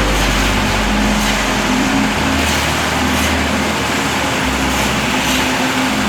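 A running engine: a steady, loud mechanical drone with a low hum and deep rumble.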